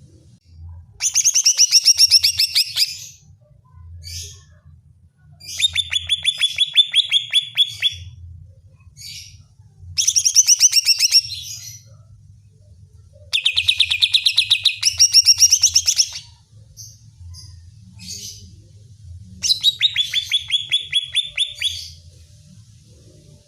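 Greater green leafbird (cucak ijo) singing in five loud bursts, each a fast run of rapidly repeated high notes lasting one to two and a half seconds, with short pauses between them.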